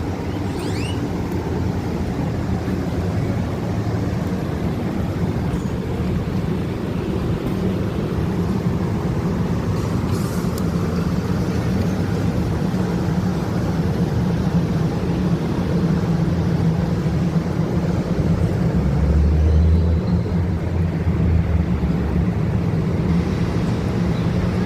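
A steady low motor drone over a background of noise, a little louder about two thirds of the way through.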